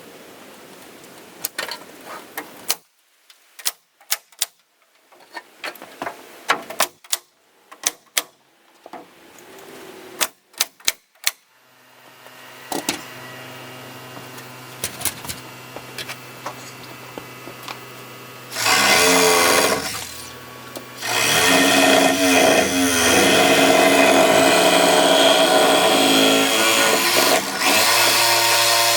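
Building work with hand tools and a power tool: a run of sharp knocks and taps for the first dozen seconds or so, then an electric power tool starts up with a steady hum, and near the end it runs loud in two long stretches with a short break between.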